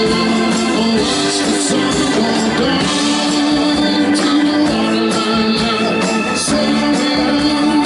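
A live blues-rock band playing a song at full volume, continuous music with held notes.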